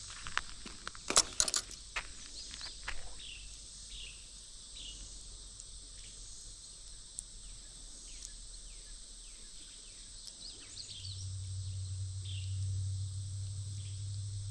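A few sharp clicks and knocks in the first three seconds, then outdoor ambience with a steady high insect drone and short falling bird chirps. A low hum comes in about eleven seconds in.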